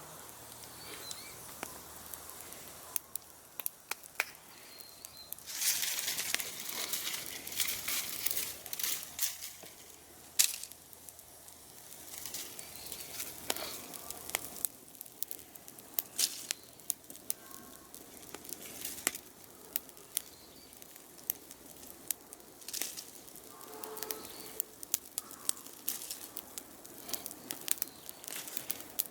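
Dry plant material crackling and rustling: a stream of irregular sharp crackles, with a longer stretch of rustling about a quarter of the way in.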